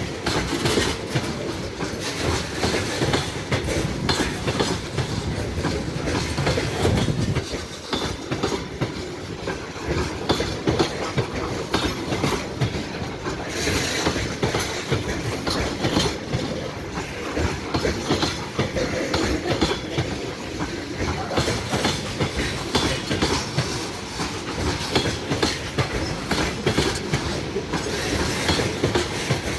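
Train rolling past, its wheels clacking steadily over the rail joints.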